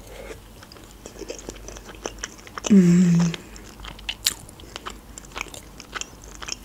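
Close-up mouth sounds of a person chewing a sushi roll: wet clicks and small crunches throughout. About three seconds in comes a short, loud hummed "mmm" of enjoyment.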